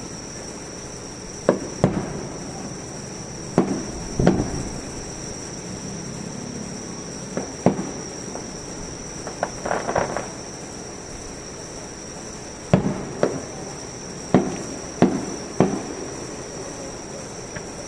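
Aerial fireworks shells bursting: about a dozen sharp bangs at irregular intervals, some in quick pairs or small clusters, each trailing off in a short rumble. A steady high insect trill runs underneath.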